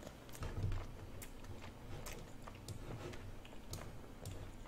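A person chewing a mouthful of spicy dumpling, with soft, scattered wet mouth clicks and smacks.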